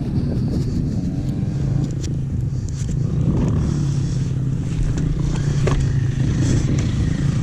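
A dirt bike engine idling steadily, with a few light clicks over it.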